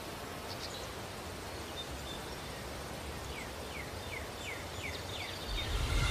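Outdoor ambience: a steady hiss of background noise, with a bird giving a run of about six short, falling chirps in the second half. A low rumble starts to swell near the end.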